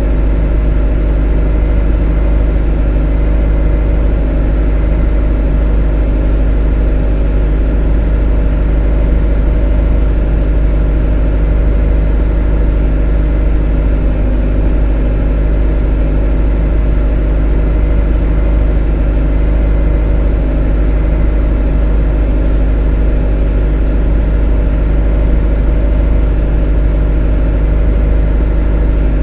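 A motor running at a constant speed: a loud, unchanging deep hum with a stack of steady tones above it.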